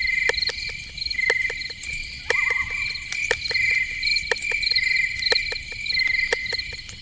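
Crickets chirping in repeated pulsed trills, with scattered sharp ticks throughout and a short wavering call a little over two seconds in.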